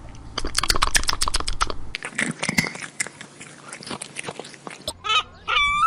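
An animal chewing: rapid, irregular crunching clicks for about five seconds. Near the end, a goose starts honking in short, repeated calls.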